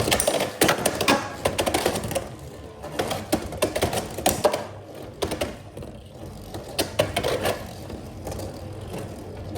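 Two Beyblade X spinning tops, one of them Silver Wolf 1-60 Rush, clashing and rattling in a plastic stadium. The sharp clicks come thick and fast for about the first two seconds, then turn into scattered hits and rattles as the tops lose spin.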